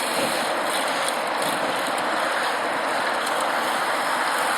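Steady rushing noise of moving air and riding picked up by an earpiece microphone on a moving recumbent bicycle.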